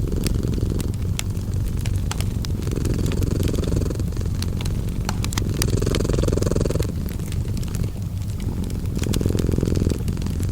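Domestic cat purring in a steady low rumble that swells and eases every three seconds or so, mixed with a wood fire crackling in scattered sharp pops.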